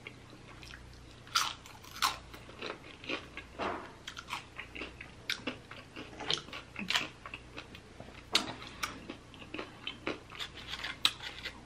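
Tortilla chips being crunched and chewed close to the microphone: irregular crisp crunches, several a second, with louder bites now and then.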